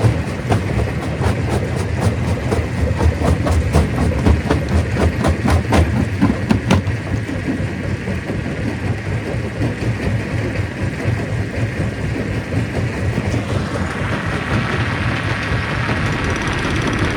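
Stone crusher running under a heavy engine drone, with rapid cracks and knocks of rock being broken over the first several seconds. It then settles to a steadier running sound, and a brighter grinding hiss comes in near the end.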